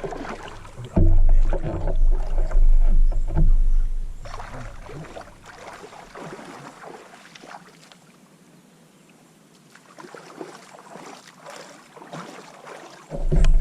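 Water splashing and sloshing around a kayak as a person moves in the water beside it. A heavy low rumble on the microphone is loudest from about one to four seconds in and comes back near the end, with a quieter stretch in the middle.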